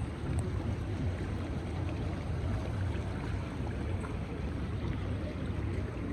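Flooded Ganges river rushing past: a steady, unbroken noise of fast-flowing water, heaviest in the low end.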